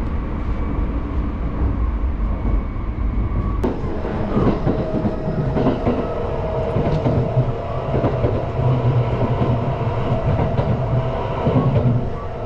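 Running noise heard inside a moving Kintetsu Shimakaze express train (a 50000-series electric multiple unit): a steady low rumble. After an abrupt change about four seconds in, it turns louder, with wheels clattering and knocking on the rails.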